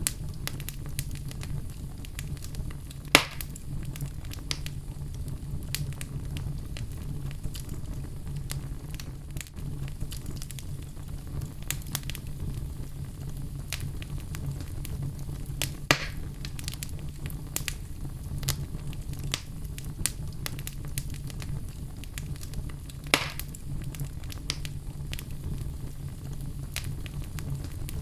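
Fire crackling in a fireplace: a steady low rumble with constant small crackles, and three sharp, louder pops spaced several seconds apart.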